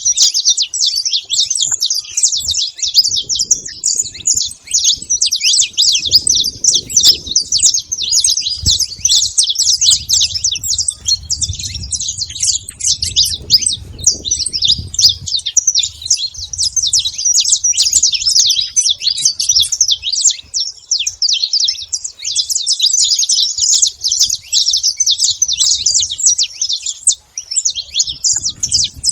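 Saffron finch singing: a fast, continuous run of high chirping notes without a break.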